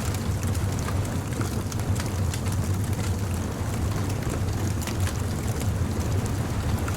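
Beach bonfire crackling, with scattered sharp pops and snaps over a steady low rumble.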